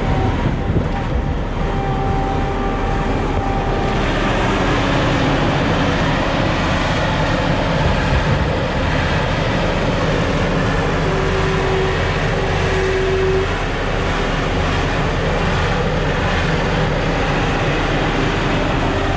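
John Deere 4440 tractor's six-cylinder turbo diesel running steadily just after a cold start, in weather the engine doesn't like. Faint whining tones come and go over a constant low rumble, and the sound brightens about four seconds in.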